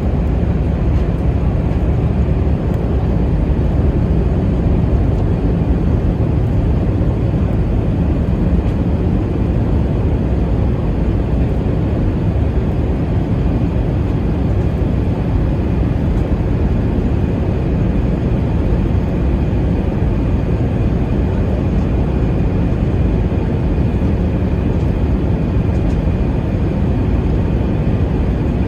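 Steady low rumble inside the cabin of an Airbus A320-232 airliner on approach: engine and airflow noise, unbroken throughout.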